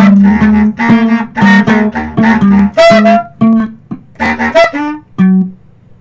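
Music: quick plucked guitar notes over repeated low notes, thinning out and falling quiet near the end.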